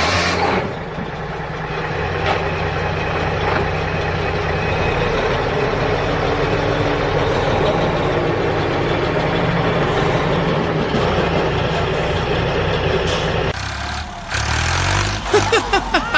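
Tractor engine running steadily with a low rumble. It breaks off about thirteen and a half seconds in, and a few short gliding tones follow near the end.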